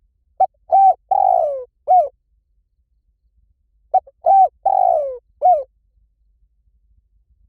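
Spotted dove cooing: two phrases about three and a half seconds apart. Each is a short note and a coo, then a longer coo that slides down in pitch, then a final short coo.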